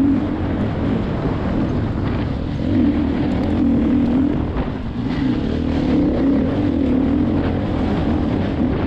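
KTM enduro motorcycle engine heard from on board the bike, running steadily on a rocky trail, its note swelling and easing several times as the throttle is worked.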